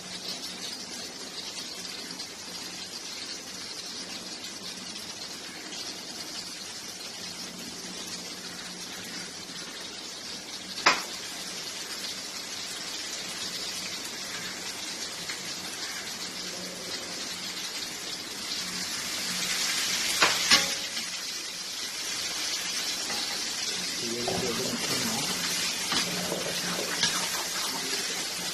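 Chicken and spice masala sizzling as it is sautéed in a pan. The steady frying hiss gets louder in the second half. A sharp knock, a spoon against the pan, comes about eleven seconds in, and two more come close together around twenty seconds.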